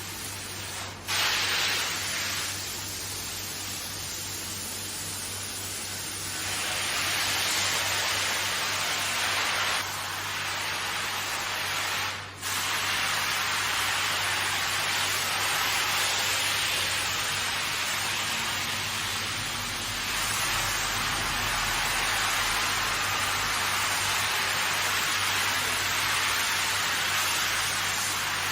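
Steady hiss of water spraying from a hand-held car wash sprayer onto a carpet. It breaks off briefly about a second in and again about twelve seconds in.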